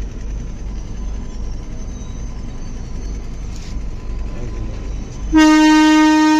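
Steady low rumble of a passenger train running, heard from inside the coach. About five seconds in, a long, loud, steady blast of a train horn begins.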